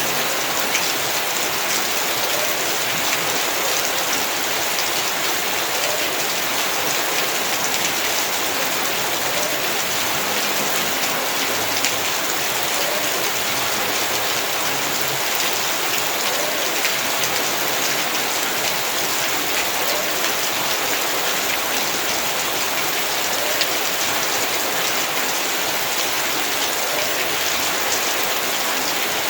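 Heavy rain falling steadily, a dense, even hiss of many drops hitting hard surfaces.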